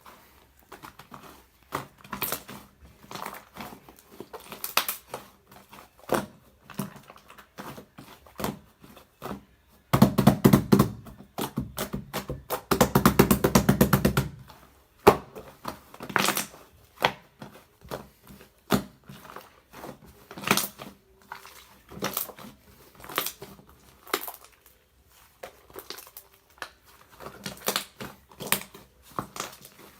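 Brown sugar bubble tea slime being squeezed and poked by hand, giving irregular sticky clicks and pops, with a dense, louder stretch of rapid crackling about a third of the way in.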